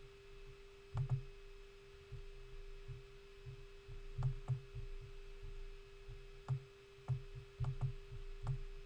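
Scattered soft clicks and low knocks from a computer mouse being clicked and moved, irregular and about a dozen in all, over a steady faint electrical hum.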